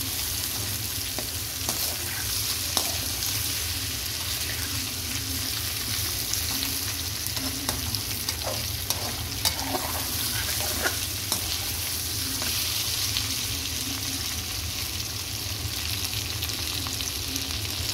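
Thinly sliced potatoes and cumin seeds sizzling steadily in hot ghee in a metal pan, with a metal slotted spoon scraping and clicking against the pan as they are stirred.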